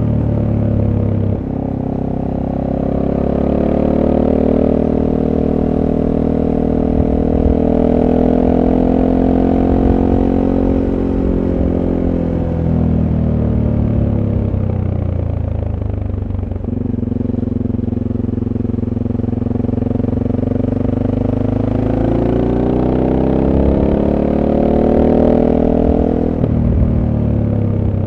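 SWM Superdual T motorcycle's single-cylinder engine through its stock exhaust, heard on board while riding. The engine note climbs for about ten seconds, falls away in the middle as the throttle closes, then climbs again and drops near the end.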